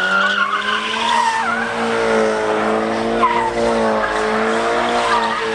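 A vehicle engine held at high revs with tyres squealing and skidding on pavement, as in a burnout or donut. The engine pitch stays nearly steady, wavering a little, throughout.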